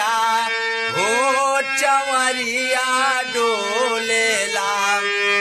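Bhojpuri devotional folk song: a male voice swoops up into long held, wavering notes over a steady drone, with occasional sharp percussion strikes.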